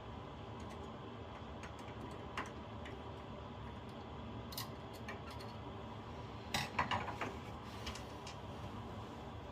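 A few light clicks and clinks, with a short cluster of them about two-thirds of the way through, over a steady background hiss.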